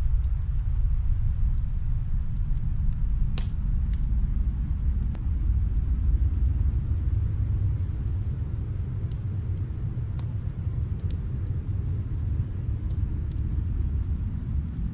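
Log fire crackling: sparse, sharp little pops, the clearest about three and a half seconds in, over a steady deep rumble.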